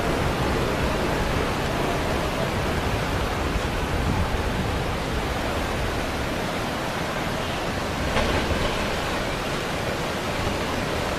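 Steady rushing of fast-flowing floodwater, with a brief louder splash or knock about eight seconds in.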